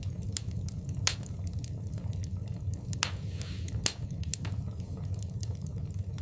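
Wood fire burning in a fireplace: a low steady rumble with scattered sharp crackles and pops, a few louder pops about a second in and around three and four seconds.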